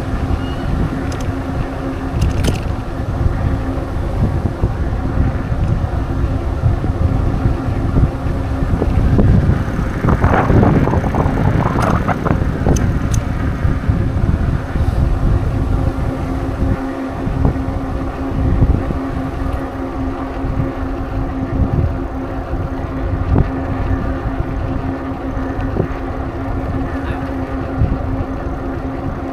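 Wind buffeting the microphone and rolling noise of a bicycle being ridden, with a steady hum underneath. About ten seconds in, a louder rush swells for about two seconds and fades.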